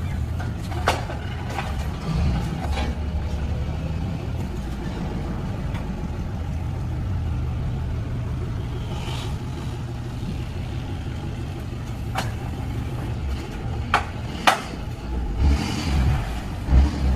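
Tow truck engine running steadily as it drives, with a few sharp clicks and, near the end, several heavier low thumps.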